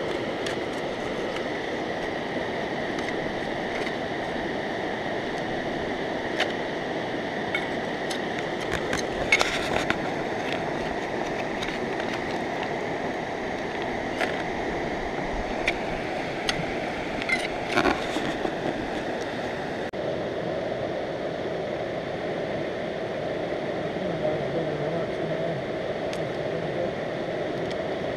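Steady rush of river water, with a few sharp clicks and knocks, a cluster about ten seconds in and another near eighteen seconds, like a digging tool striking rock and gravel.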